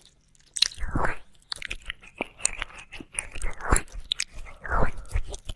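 Close-miked ASMR mouth sounds of ear licking: irregular wet clicks, smacks and short licking bursts, several a second.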